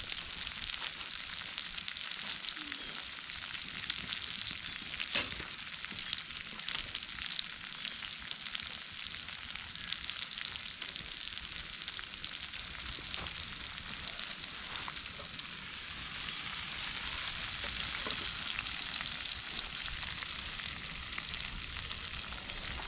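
Sliced peppers frying in oil in a pan over a campfire: a steady sizzle dotted with small crackles, with one sharp pop about five seconds in.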